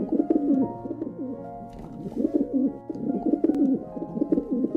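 Pigeon cooing, a run of repeated throaty, warbling coos in phrases of about a second, over soft background music.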